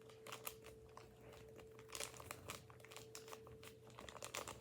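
Faint crinkling and small clicks of a small plastic powder packet from a candy-making kit being handled and poured from.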